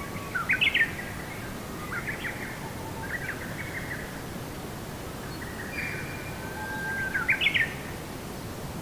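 A songbird singing short phrases of quick chirps and whistles, with two louder bursts of rapid rising notes, one just after the start and one about seven seconds in, over a steady soft hiss.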